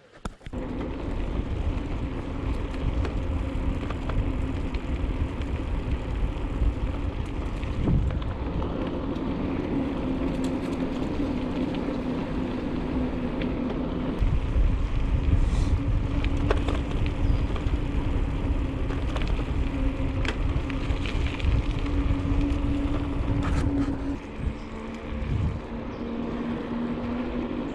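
Bicycle riding along a trail, with rumbling wind and tyre noise on the camera's microphone and a steady hum that drops a little in pitch near the end.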